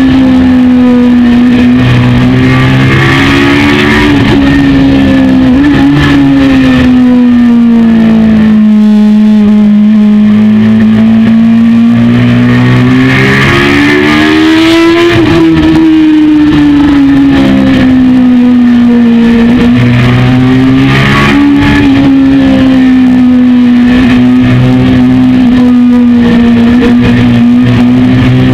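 Honda CBR929RR Fireblade's inline-four engine running at speed, heard close up from the tank. The engine note sinks slowly for about ten seconds, climbs back over the next five, then holds steady.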